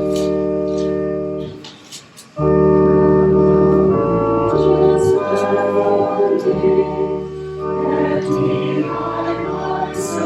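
Church organ playing sustained hymn chords. It breaks off briefly about two seconds in, then comes back in full. Voices singing join the organ from about the middle onward.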